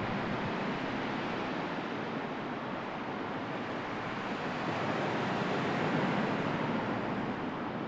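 Sea surf: a steady rush of waves washing in, swelling a little about five seconds in.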